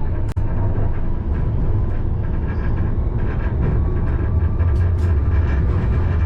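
Alstom Citadis low-floor tram running along the track, heard from the driver's cab: a steady low rumble of wheels on rails with scattered short clicks and a faint motor whine.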